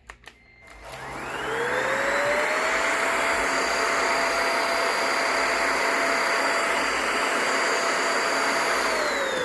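Cordless stick vacuum cleaner switched on with a few clicks, its motor whine rising as it spins up, then running steadily with a loud rush of air while vacuuming. Near the end it is switched off and the whine starts to fall as the motor winds down.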